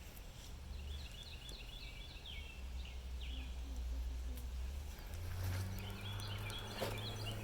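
A songbird singing two quick runs of short chirping notes, over a low steady hum.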